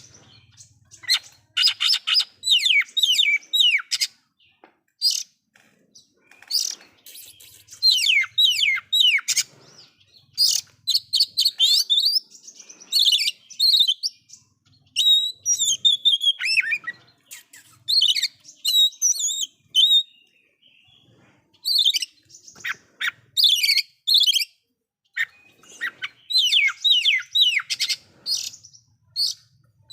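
Oriental magpie-robin (kacer) singing loudly, with isian: rapid runs of falling whistled notes and chattering phrases in bursts of a second or two, broken by short pauses.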